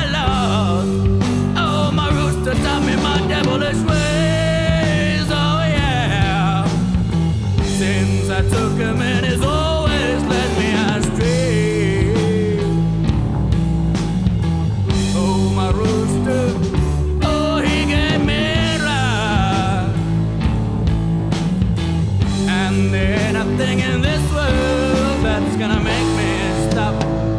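Psychedelic rock band playing an instrumental break: a lead electric guitar bends and wavers in pitch over steady bass and drums.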